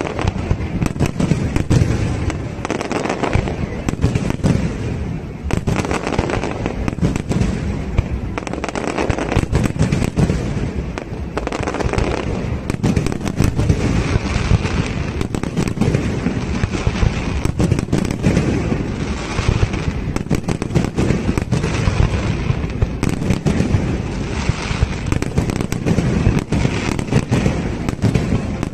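Aerial fireworks display: shells bursting in a dense, unbroken barrage of bangs and booms, many in quick succession.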